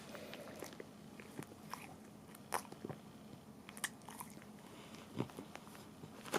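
Cavalier King Charles Spaniel licking a paint-filled plastic bag: faint, scattered wet licking clicks and small crinkles of the plastic.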